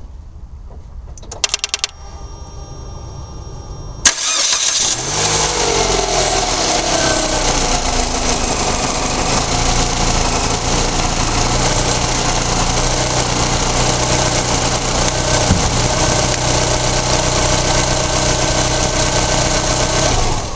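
Mitsubishi Lancer X engine started: a few quick clicks, then it catches about four seconds in. It runs at a fast idle that settles down over the next few seconds to a steady idle. The freshly tightened accessory drive belt does not seem to squeal.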